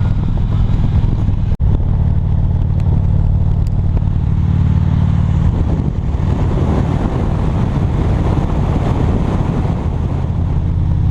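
Motorcycle engine running steadily at riding speed, with a low, even hum and road noise. The sound cuts out for an instant about a second and a half in. Partway through, the engine hum weakens and a rougher rushing noise takes over for several seconds before the hum returns.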